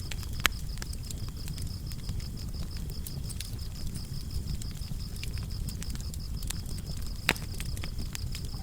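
Wood fire crackling, with many small snaps and two louder pops, one about half a second in and one near the end, over a low steady rumble of the flames. Crickets chirp steadily in the background.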